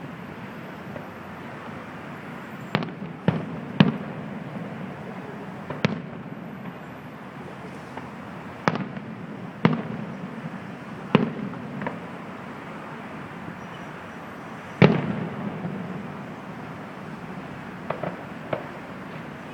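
Fireworks shells bursting at a distance: irregular sharp booms every second or few, the loudest about fifteen seconds in, each trailing off in an echo.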